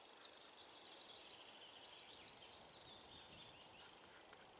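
Faint birdsong: a run of quick, high chirps and short trills, with a steady faint high trill behind it.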